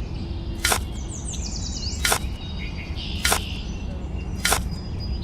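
Sharp clicks about once every second and a bit, over a steady low rumble, with birds chirping briefly in the middle.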